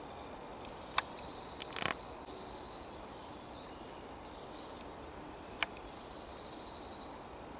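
Quiet woodland ambience with faint, distant bird calls, broken by a few sharp clicks or taps: one about a second in, a short cluster just before two seconds, and one more later.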